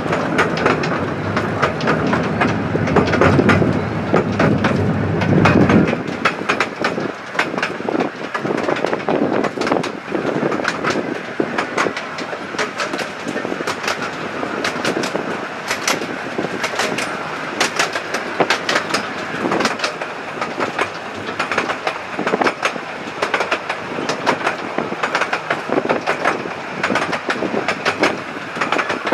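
Miniature railway train heard from aboard a carriage, wheels clicking steadily over the rail joints. A heavier low rumble for the first six seconds stops suddenly.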